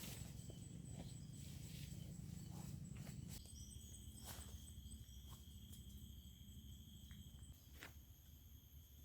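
Faint outdoor ambience of insects calling in steady high-pitched tones, with a second tone joining about three seconds in. Under them runs a low rumble with scattered light clicks and knocks.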